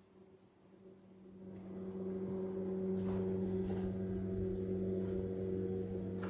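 A steady low motor hum, swelling from about a second in and then holding level.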